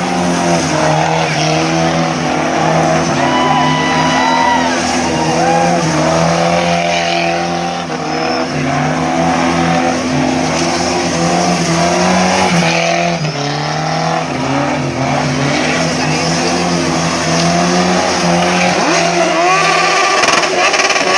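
Sports car engine revving hard and held at high revs while drifting, with tyres squealing. The engine pitch climbs near the end.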